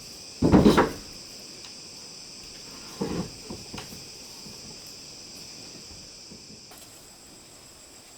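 Wooden knocking and clattering, as of boards or door parts being handled: a loud clatter about half a second in, then a shorter knock with a few light taps about three seconds in. Insects chirr steadily throughout.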